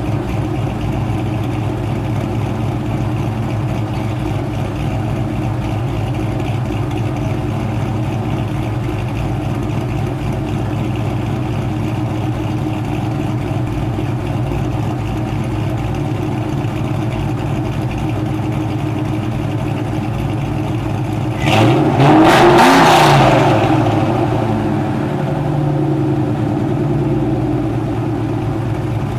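Ford Mustang GT 4.6-litre two-valve V8 with aftermarket cams, headers, X-pipe and SLP LM1 mufflers idling steadily while warming up after a cold start. About 21 seconds in it is revved once, the pitch rising sharply and falling back to idle over a couple of seconds.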